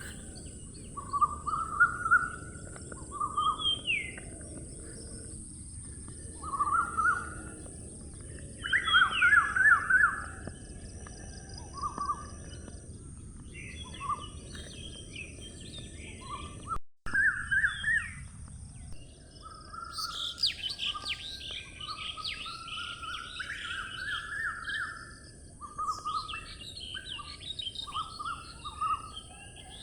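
Several birds singing and calling in short, repeated chirping phrases over a steady high hiss and a low outdoor background. The sound drops out for an instant about 17 seconds in, and the calling becomes busier and higher from about 20 seconds on.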